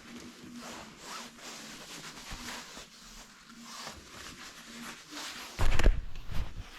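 Repeated rasping scrapes of sweep's rods working inside a chimney flue, with a louder, heavy low knocking for about a second near the end.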